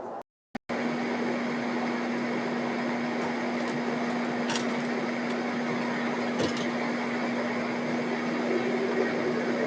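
A steady mechanical hum with one constant low tone and a few faint ticks. It starts abruptly about half a second in, after a brief cut to silence.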